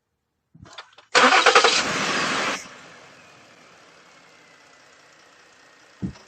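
Ford Edge engine cranking and catching, running loud for about a second and a half on start-up, then settling to a quiet steady idle on its first start after an oil change. A short thump near the end.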